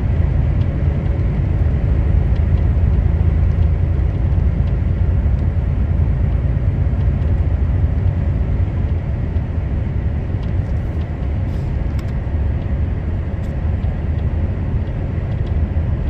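Heavy truck driving, its engine and road noise making a steady low rumble.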